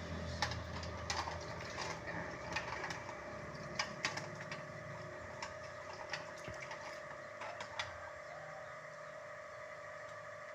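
Irregular clicks and light knocks of refrigerator shelves and parts being handled and wiped during cleaning, over a steady hum.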